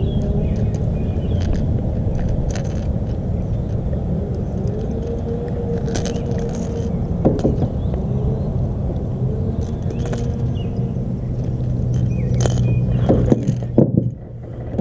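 A steady low rumble with a low hum runs throughout. Over it come a few sharp metallic clicks and rattles as pliers and a topwater lure's hooks are worked free of a small bass's mouth.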